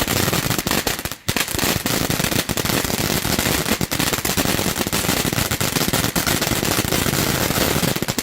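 Mayham Conic cone fountain from Santan Fireworks burning with a dense, rapid crackle of many small pops, briefly thinning about a second in, then cutting off abruptly as the fountain burns out near the end.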